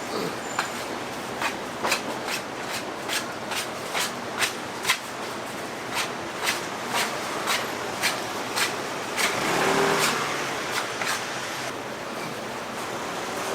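Irregular sharp clicks and knocks, about two a second, like utensils or tools clattering at a street-food stall, over steady background noise of a busy market. A brief swell of rushing noise comes in about two-thirds of the way through.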